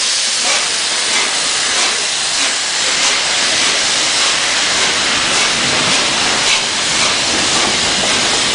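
LNER Peppercorn A1 Pacific steam locomotive No. 60163 'Tornado' letting off steam: a loud, steady hiss.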